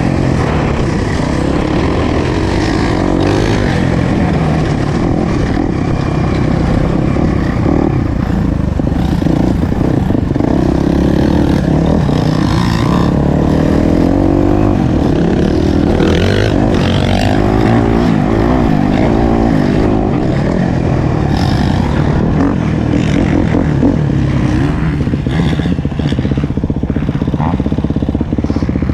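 Motocross bike engine being ridden hard on a dirt track, the revs rising and falling over and over with throttle and gear changes.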